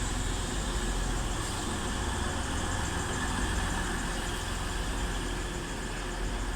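Diesel engines of a Class 185 multiple-unit train running steadily at the platform, a continuous low rumble.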